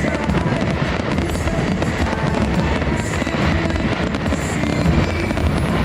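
Fireworks bursting and crackling in rapid, continuous succession over loud show music.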